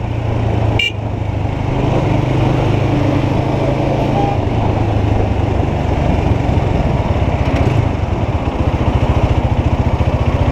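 Falcon Freedom 250 motorcycle engine running on the road with wind noise over it, a short horn beep about a second in. In the second half the engine note turns into distinct rapid pulses.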